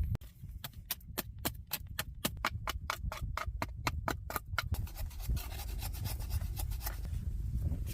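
Quick, regular scraping strokes, about five a second, that give way a little past halfway to continuous rubbing, as of a hand tool working a piece of material.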